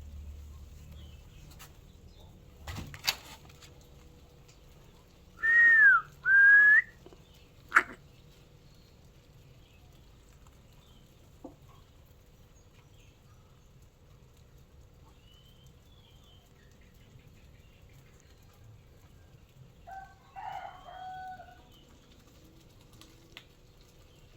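Two loud, clear whistled notes, the first falling and the second rising, about five and a half seconds in, followed by a sharp click. Fainter short chirps come about twenty seconds in.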